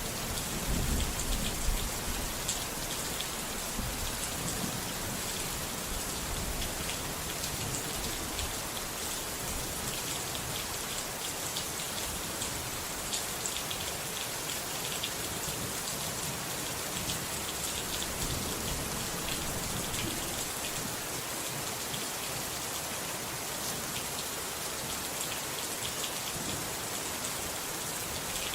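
Steady rain falling, with the patter of individual drops, and a brief low rumble about a second in.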